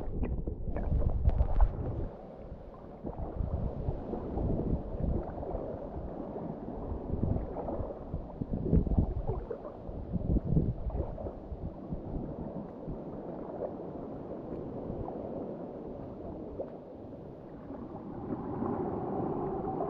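Water gurgling and sloshing against a kayak as it is paddled, in uneven splashes, louder in the first two seconds.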